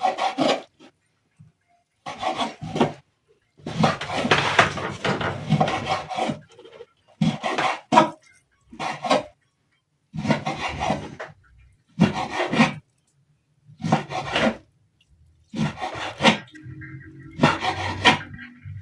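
Knife sawing through raw beef on a wooden chopping board: short bursts of rasping strokes, about ten spells with brief pauses between them.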